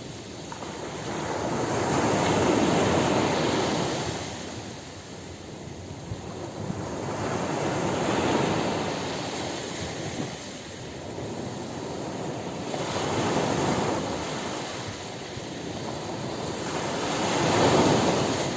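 Ocean surf breaking on a beach: four swells of rushing water noise, each building and fading, about five seconds apart, the last one loudest near the end.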